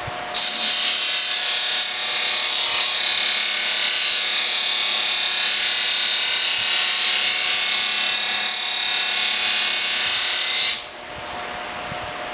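Steady abrasive hiss of a steel broadhead being worked by an abrasive tool. It starts suddenly, holds even for about ten seconds and cuts off sharply.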